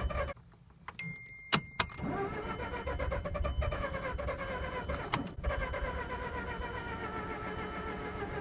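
Mazda RX-8's two-rotor rotary engine cranking on the starter without catching: a flooded engine that will not fire. A short crank cuts off in the first half second, then comes a brief tone and two sharp clicks. A long, steady crank starts about two seconds in and keeps going.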